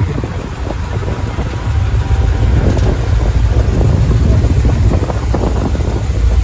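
Steady low vehicle rumble with wind buffeting the microphone.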